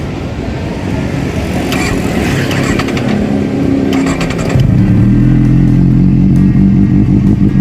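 A Kawasaki Z800's inline-four engine runs through a Two Brothers tarmac exhaust freshly repacked with new glass-wool packing. About halfway through, the engine is revved up and held at a higher, louder note.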